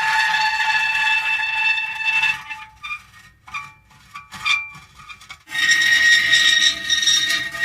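Metal creaking: long, drawn-out squealing creaks made of several steady high tones. Near the middle these break into short, stuttering creaks, and a new long creak starts a little after halfway.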